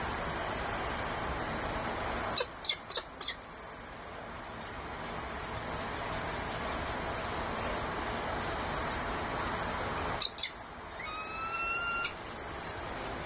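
A bird calling at the nest: four short, sharp calls about two seconds in, two more near the end, then one drawn-out call lasting about a second, over a steady hiss.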